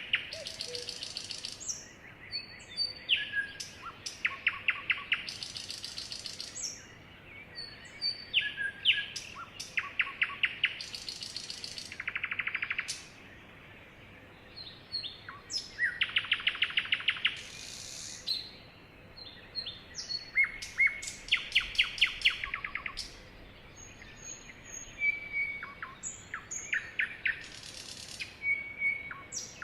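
Sparrows singing and chirping: fast, high trills about a second long repeat every few seconds, with short chirps and whistled notes between them.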